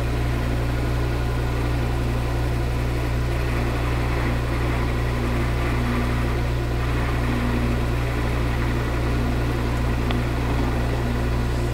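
Metal lathe running steadily with a deep, even hum while facing the end of an aluminum bar with a high-speed steel tool bit.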